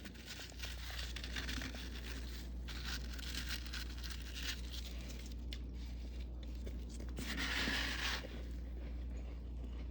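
Crispy frost built up on freezer walls being scraped and crunched off in a series of strokes, with a longer, louder scrape about seven seconds in.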